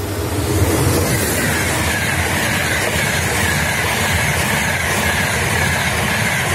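Trenitalia high-speed train passing through the station at speed. The rushing wheel and air noise swells over the first second as it arrives, then holds steady and loud with a high whine as the coaches sweep by.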